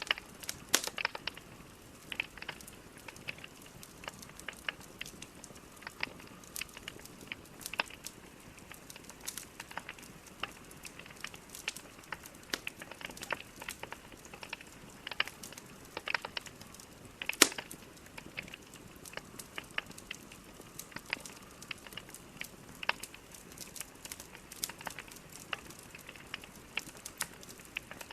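Logs burning in a fireplace: irregular sharp crackles and pops over a soft steady hiss, one pop louder than the rest past the middle.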